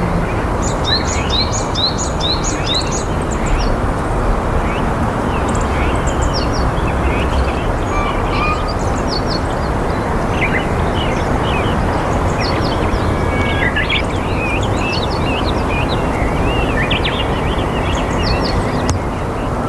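Wild birds chirping and calling in many short notes and quick sweeps, with a run of rising notes in the first few seconds, over a steady low background rumble.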